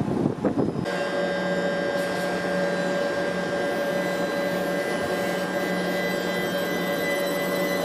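A train's steady electrical whine, several held tones at once, taking over abruptly from a brief rumble about a second in.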